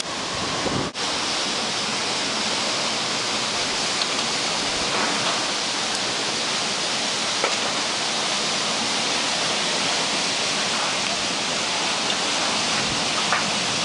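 Summer storm: a heavy downpour and wind making a steady, loud rushing hiss, with a brief dip about a second in.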